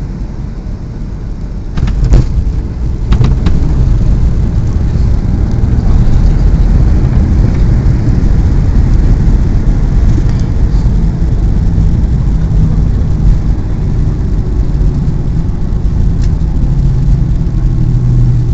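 SpiceJet airliner on the runway: a loud, deep rumble that jumps up suddenly about two seconds in with a couple of sharp knocks, then runs on steady.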